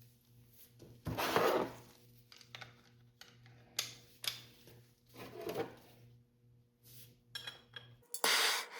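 Metal parts and tools handled on a workbench: a few scrapes and sharp clinks, with a louder rattle near the end. A steady low hum underneath cuts off shortly before the end.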